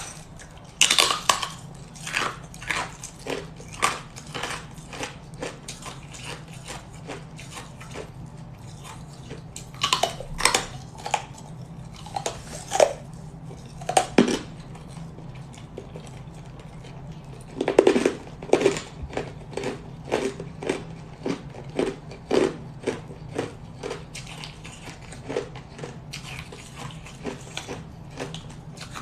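Someone biting and crunching hard ice close to the microphone, in irregular crackling crunches. The loudest bites come about a second in and again around ten, fourteen and eighteen seconds in.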